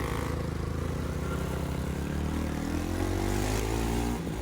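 Motorcycle engine running under way; its pitch climbs over the second half as it speeds up, then drops off sharply near the end.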